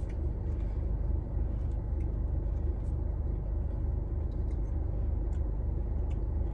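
Steady low rumble of a car idling, heard from inside the cabin, with a few faint mouth clicks from chewing.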